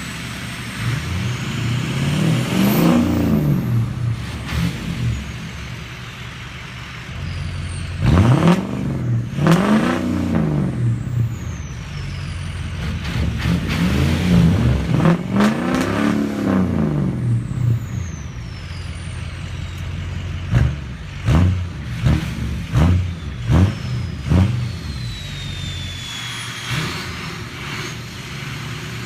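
Turbocharged Ford V8 diesel pickup engine free-revving: three long revs rising and falling, then a run of quick short blips of the throttle. A high turbo whistle sweeps down in pitch as the turbo spools down after the revs.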